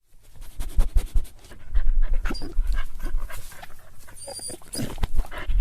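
A dog panting in quick, irregular breaths, with a few low bumps and a brief faint high squeak about four seconds in.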